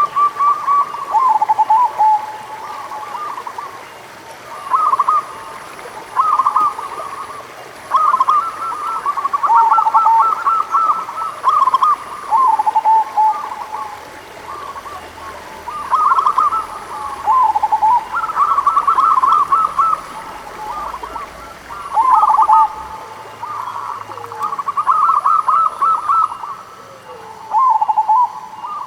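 Zebra doves (perkutut) cooing: repeated bursts of quick, trilled coos every second or two, with phrases at two pitches overlapping.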